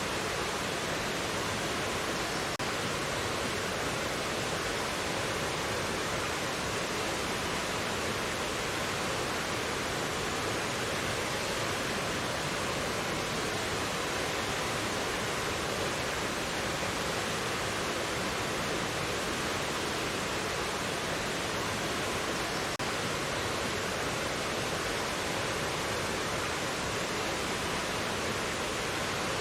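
Mountain valley stream rushing steadily over rocks, a constant even roar of flowing water.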